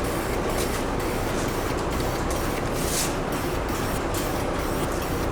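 Aerosol spray can of wheel paint hissing in a run of short bursts over a steady background rumble while laying down a color coat.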